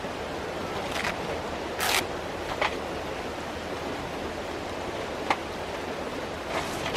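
Mountain stream water rushing steadily, with a few short knocks and rustles scattered through it, the loudest about two seconds in.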